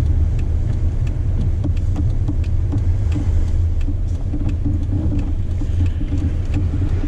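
Two-door Jeep Wrangler driving slowly on a snow-covered road, heard from inside the cabin: a steady low engine and road rumble with a light ticking about three times a second.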